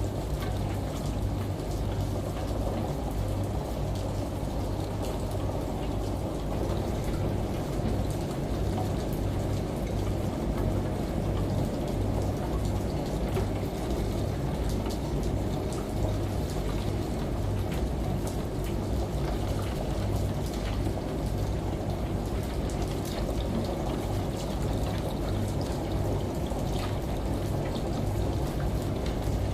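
Steady mix of rain, water running from a shower and a washing machine. A low throb pulses evenly underneath, with faint drop ticks on top.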